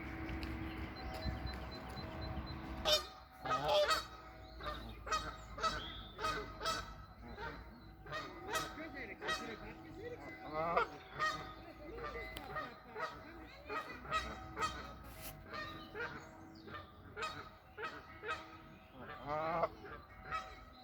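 A flock of geese honking, with many short calls overlapping in quick succession, starting about three seconds in.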